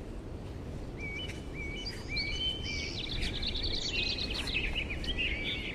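Birds singing: a few short repeated whistled notes, then a busier run of quick high chirps, over a steady low background rumble.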